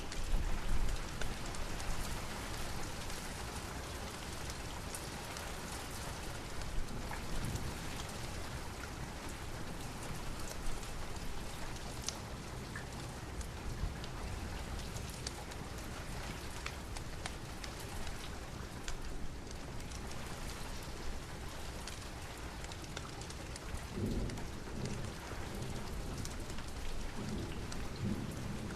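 Steady rain with scattered sharp crackling pops, as from a fireplace. A low rumble of thunder comes in the first second or so and again a few seconds before the end.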